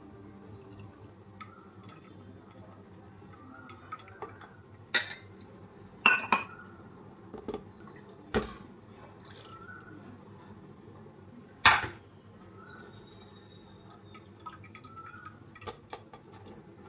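A kitchen utensil clinking and scraping against a strainer while blended tomato purée is stirred and pushed through it. There are scattered light taps and four sharper knocks, about 5, 6, 8 and 12 seconds in.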